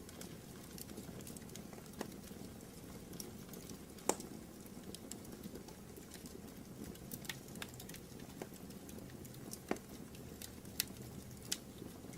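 Wood fire burning in a fireplace: a steady low rumble with irregular crackles and pops, the loudest about four seconds in and a cluster near the end.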